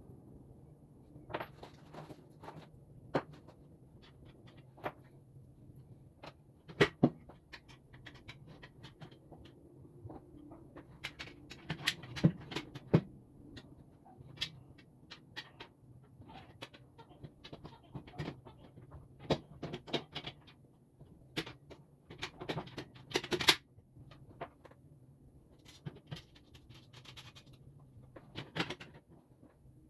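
Irregular clicks, knocks and light clatter of table parts and hand tools being handled during assembly of a pre-fab work table, with a few sharper knocks about 7 seconds in, around 12 seconds and near 23 seconds.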